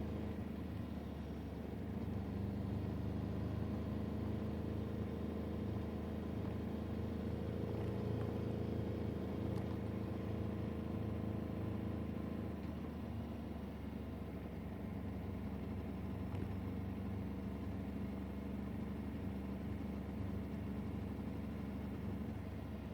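A vehicle's engine running steadily at an even speed, with a slight change in pitch about eight to twelve seconds in.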